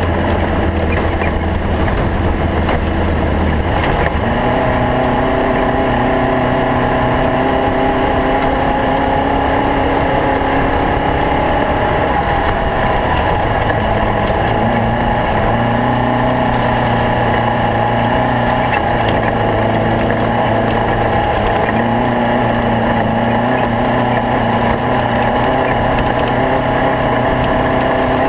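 Air-cooled Volkswagen Beetle engine of a stock bug off-road race car running hard and steadily, with road and chassis noise. The engine note changes about four seconds in and again around twelve seconds in.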